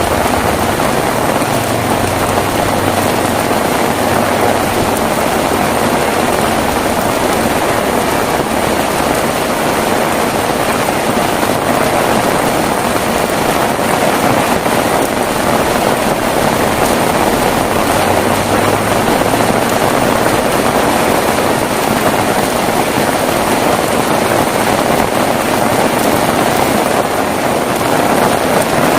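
Heavy rain falling steadily as a dense, even hiss, with no thunderclaps.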